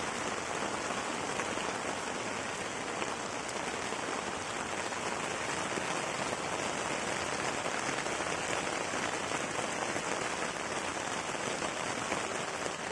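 Steady rain falling on water and ground, an even hiss without pause.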